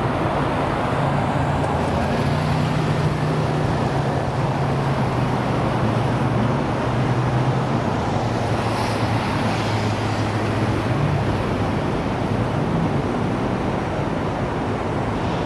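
American car's engine running at a steady idle, a low tone that drifts slightly up and down in pitch a few times, over steady traffic noise.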